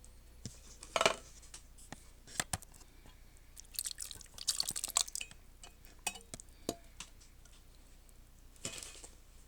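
Canned diced tomatoes being emptied into a crockpot: wet plops and splats of the tomatoes, with scattered knocks and clinks of the can against the pot, busiest around the middle.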